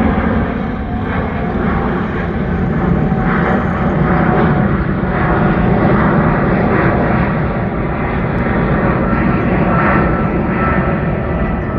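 Aircraft engine running steadily, with an even rushing noise over it.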